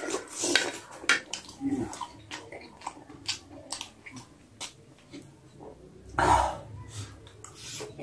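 Close-miked chewing of a mouthful of chicken momo: many short wet mouth clicks and smacks, with one louder noisy burst about six seconds in.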